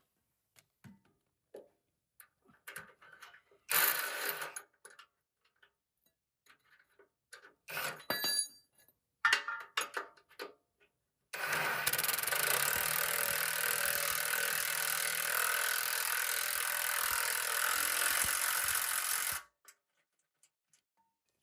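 Scattered knocks and clanks of metal parts being handled, then a tool running with a steady hiss for about eight seconds before it stops abruptly.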